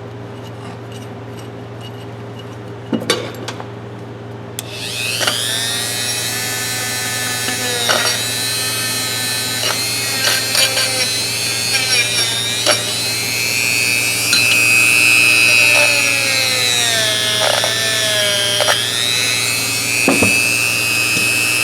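A steady low hum, then about four and a half seconds in a small handheld power tool starts up and runs, its motor pitch dipping and recovering again and again as it is pressed against a steel adjustable wrench being cleaned. A few knocks come through along the way.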